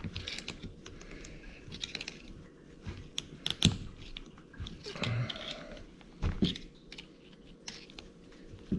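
Scattered clicks, knocks and scrapes of hand tools and metal parts as a retaining clip is worked loose on the end of a CV axle.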